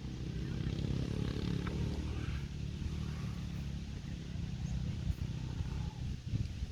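Motocross motorcycle engines running, a steady low engine drone with no sharp revs.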